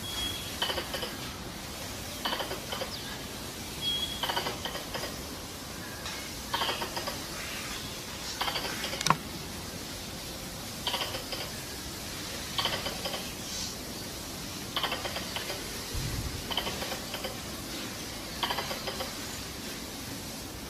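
Squirrel chattering calls: clusters of short, rattling clicks repeated every second or two, with a brief high whistled note now and then.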